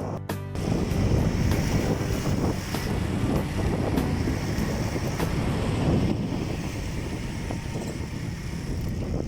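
Wind buffeting the microphone outdoors, a steady low rumbling noise that swells and eases.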